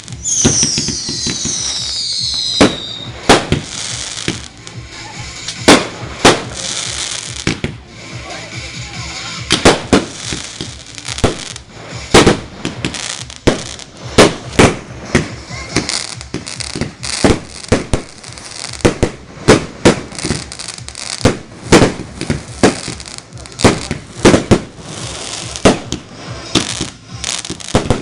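Fireworks going off in a rapid, irregular string of sharp bangs and crackles. In the first few seconds several whistles fall in pitch together.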